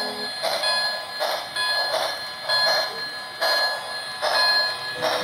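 HO-scale model trains running on the layout: a rhythmic rattle repeating about every three-quarters of a second over a steady high whine.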